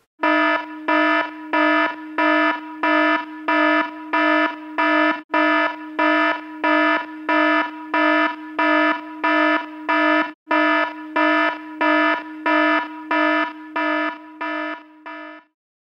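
Electronic alarm buzzer beeping in a steady repeating pattern, just under two buzzy beeps a second, all on one pitch, each beep loudest at its start. It breaks off for an instant twice, as a looped sound effect would, and stops shortly before the end.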